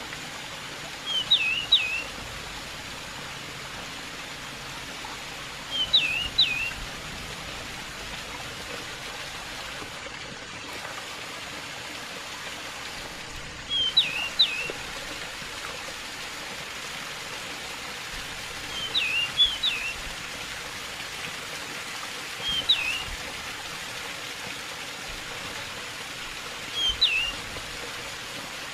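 Pied bushchat singing a short, quick phrase of three or four whistled notes, six times, about every four to five seconds, over the steady hiss of running water.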